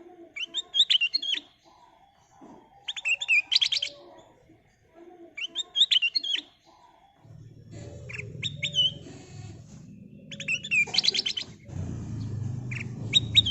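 Kutilang emas bulbul singing in short, repeated phrases of whistled notes and fast rattling trills, about one phrase every two and a half seconds. A low rumble comes in behind the song about halfway through and gets louder near the end.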